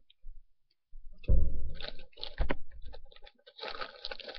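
A person crunching candy-coated M&M's close to the microphone, with clicks and crackles and a heavy bump about a second in.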